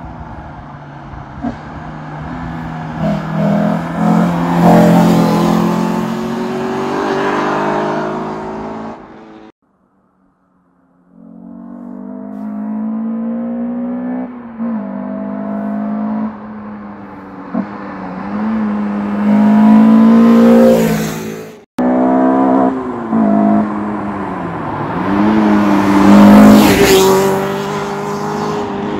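Peugeot 306 GTi-6's 2.0 16-valve four-cylinder engine, fitted with Catcams camshafts, being driven hard: revs climb under full throttle and drop back again and again between gears. The sound cuts to silence for about a second and a half about ten seconds in, and breaks off abruptly once more about two-thirds of the way through.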